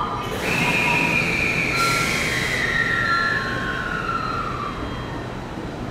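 JR West 683 series electric train beginning to pull out of the platform: a whine from the train falls steadily in pitch over about four seconds, with a rush of air hiss near the start and a short sharper hiss about two seconds in.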